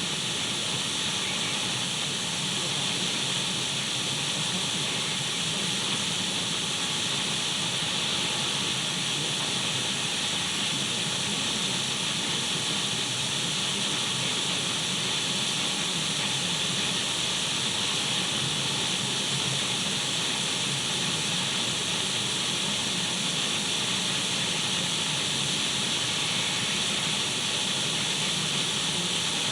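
Radio static: a steady, unchanging hiss, strongest in the upper middle and thin in the bass.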